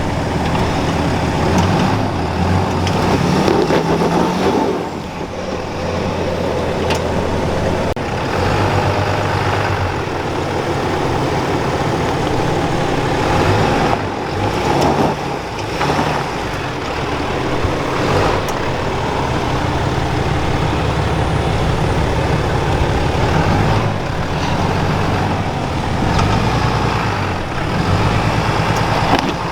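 Ram 2500's Cummins turbo-diesel engine revving up and down repeatedly as the truck works up a loose, rocky climb, with a few sharp knocks along the way.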